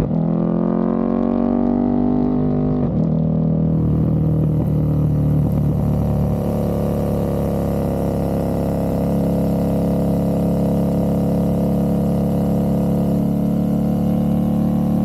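KTM 1290 Super Duke R Evo's V-twin running through a full titanium exhaust, its note shifting in pitch over the first three seconds and then holding steady.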